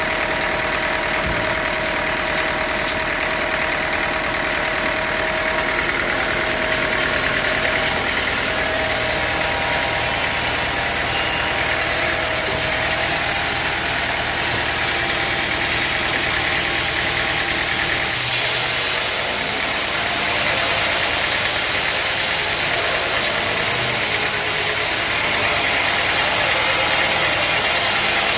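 Sawmill machinery running steadily: a loud mechanical drone with a bright hiss and a few steady tones. The low rumble drops away about two-thirds of the way through.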